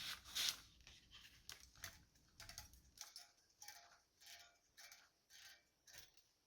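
Small metal carburetor parts and hand tools being handled on a bench, giving a string of irregular light clicks and clinks, about two a second. Several have a short metallic ring.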